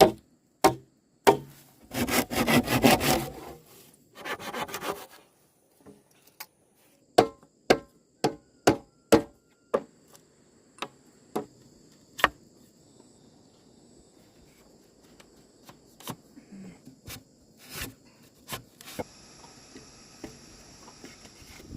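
Hand sawing on wood in two short bursts of quick strokes, followed by a run of sharp knocks at about two a second and then scattered single knocks.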